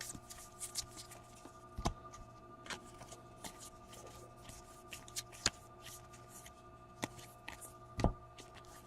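Baseball trading cards handled and flicked through one by one: a run of light, irregular snaps and rustles, with a few sharper snaps, over a faint steady hum.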